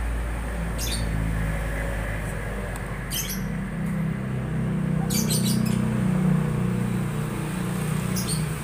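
Honda Supra X 125 FI's single-cylinder four-stroke engine idling, still slightly uneven ('rada pincang'), with birds chirping briefly now and then.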